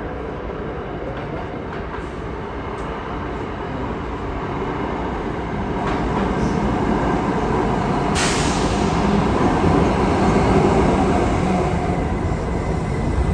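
New York City subway train running on the tracks, a steady rumble and rattle that grows louder partway through, with a brief hiss about eight seconds in.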